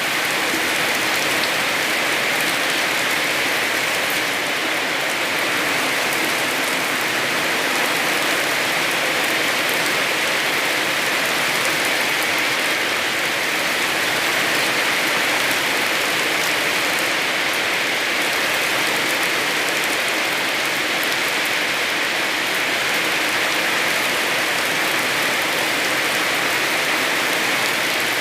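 Heavy rain falling steadily: an even, unbroken hiss of rain on surfaces.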